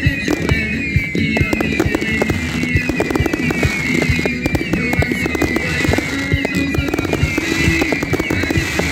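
Fireworks display: many sharp bangs and crackles of shells bursting, several a second, over loud music.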